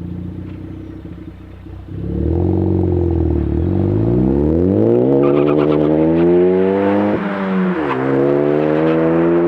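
2018 Ford Focus ST's turbocharged 2.0-litre four-cylinder pulling away from a mild launch. The revs are held steady, then the engine note dips as the car gets going and rises steadily through first gear. A quick upshift about seven seconds in drops the note, which rises again in second gear.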